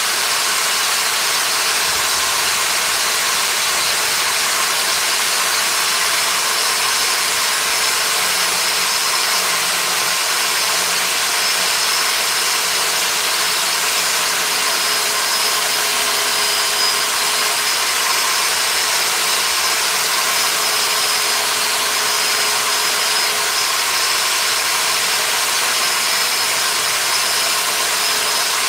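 An electric power tool's motor running steadily: an even, hissing noise with a thin, high whine that holds constant throughout.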